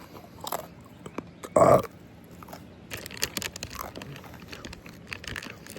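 A person chewing food close to the microphone, with mouth clicks and smacks coming thick and fast from about three seconds in. About a second and a half in there is one brief, loud throaty sound.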